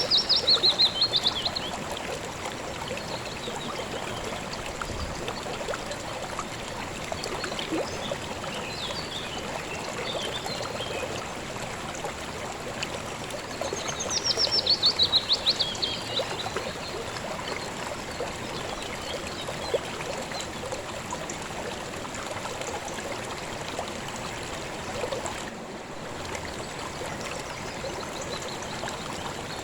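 River water flowing and trickling steadily. A songbird sings a fast descending trill twice over it, once right at the start and again about halfway through.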